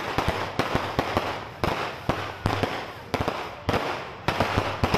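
Aerial fireworks going off in quick succession: a steady run of sharp bangs, about three or four a second, each trailing off before the next.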